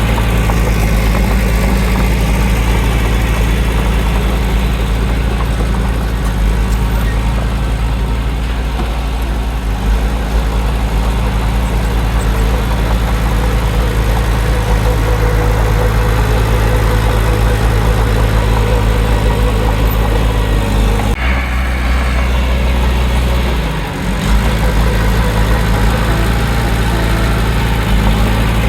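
Heavy diesel engine of earthmoving machinery running steadily. Its low note shifts about 21 seconds in and briefly dips near 24 seconds before resuming.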